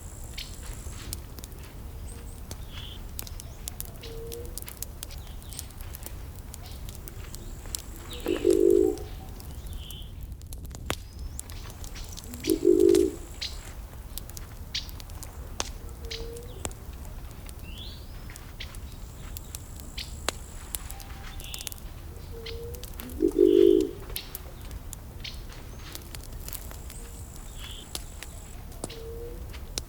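Burning wood crackling with many small sharp pops throughout. A dove coos loudly three times, each call about a second long, and birds chirp faintly.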